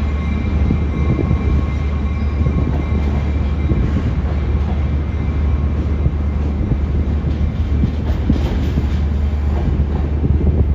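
Long Island Rail Road train running past with a loud, steady low rumble and the clatter of its wheels on the track.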